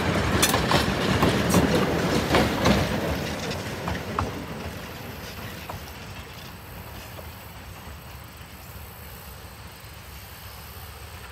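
A train passing, its wheels clicking over the rail joints, loudest in the first few seconds and then fading to a low rumble as it moves away.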